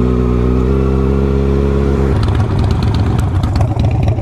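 Sport motorcycle engine running at steady revs. About two seconds in, the steady note breaks off into a rougher, lower rumble with scattered clicks, as the throttle comes off.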